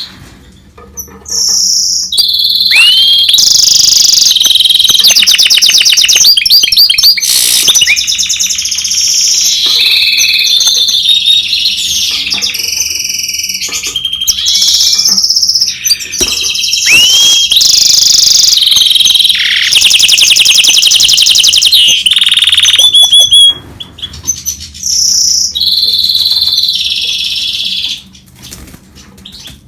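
Goldfinch × canary hybrid (mule) singing a long, loud, continuous song of rapid trills, pure whistled notes and rising glides, with a brief pause near the end.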